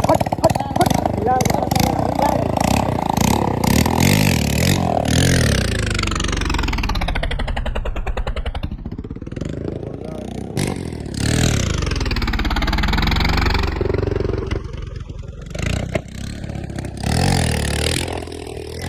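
Old motorcycle engine running, its note swelling and falling as it goes.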